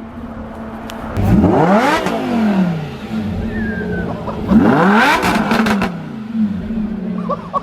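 Car engine idling, then revved twice, the pitch climbing and falling back to idle each time.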